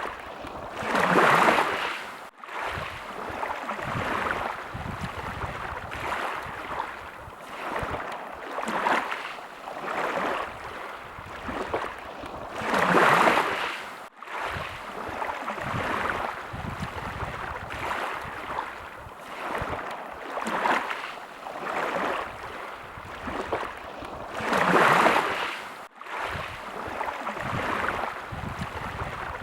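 Small waves washing and lapping in a steady rhythm, one about every two seconds, with a bigger wash about every twelve seconds. There are three very short breaks about twelve seconds apart, the seams of a looped recording.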